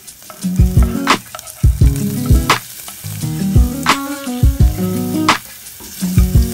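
Garlic, onion and sliced hotdog sizzling in hot oil in a pot as they are stirred with a wooden spatula, under background music with a steady beat.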